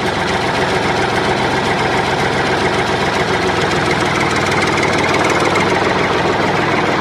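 Tractor engine running steadily at idle with a knocking beat, growing slightly louder toward the end.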